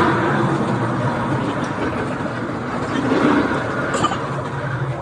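Steady running noise of a train in motion, with a short click about four seconds in.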